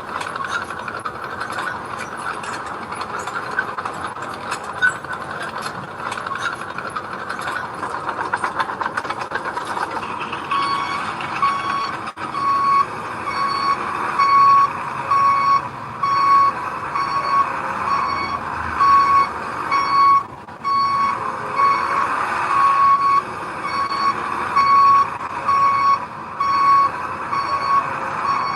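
Heavy construction machinery runs with dense metallic clattering. About ten seconds in, a reversing alarm starts beeping steadily over the engine, about one beep a second.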